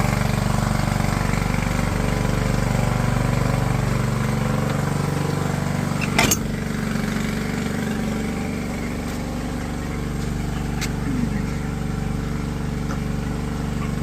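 A small engine running steadily at an even speed, with a sharp knock about six seconds in.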